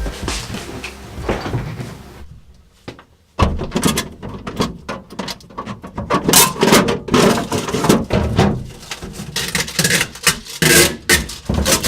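A large refrigerator being moved by hand: a dense, irregular run of knocks, clunks and scrapes starting suddenly about three and a half seconds in, after a music track fades out.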